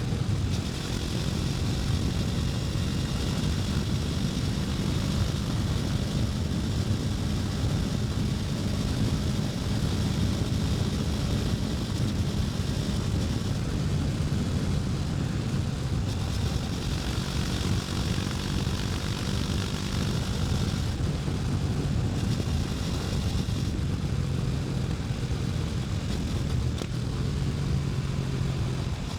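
KTM 250 Duke's single-cylinder engine running steadily while riding, with a rushing hiss over it that dims for a few seconds about two-thirds of the way through.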